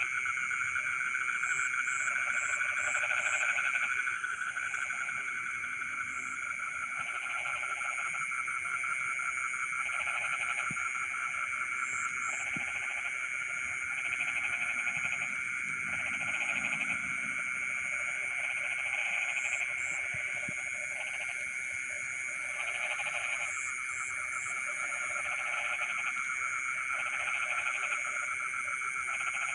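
Chorus of frogs calling, with lower pulsed calls coming on and off every second or two over a steady, continuous high trilling. A few short high chirps come in quick little groups now and then.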